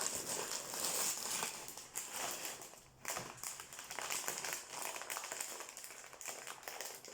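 Rustling and crinkling of a sweets or snack packet being handled, with irregular small crackles and taps.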